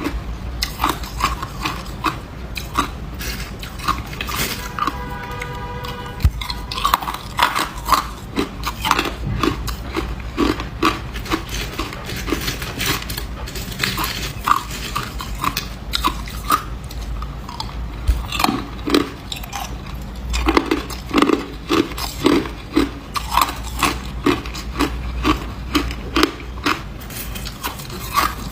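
Ice being bitten and chewed close to the microphone: a steady run of sharp crunches and cracks, with a brief steady tone about five seconds in.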